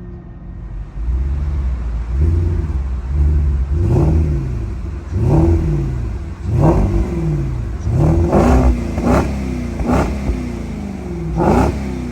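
2012 Porsche Cayenne engine through a Kinney's custom performance exhaust, blipped repeatedly from idle: about seven quick revs, each climbing and falling back, coming closer together near the end.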